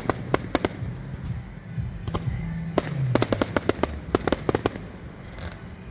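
Fireworks exploding: volleys of sharp cracks and bangs in quick clusters, loudest in the first half, thinning out near the end.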